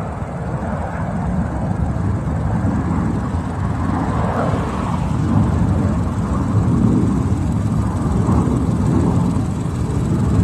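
Military jet aircraft flying over (a B-2 Spirit bomber with fighter escort), a steady low rumble of jet engine noise that swells slightly toward the end.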